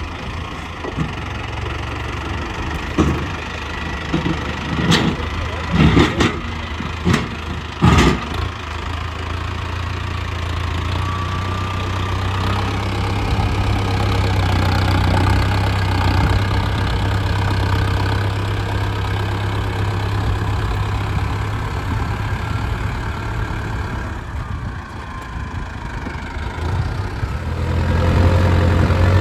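Mahindra Arjun Novo 605 DI tractor's diesel engine running steadily, with a handful of sharp knocks in the first eight seconds or so. The engine grows louder near the end.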